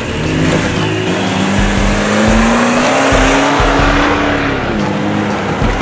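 Off-road race car's engine pulling hard under load, its pitch climbing slowly for a few seconds and then dropping off, over a steady rushing noise.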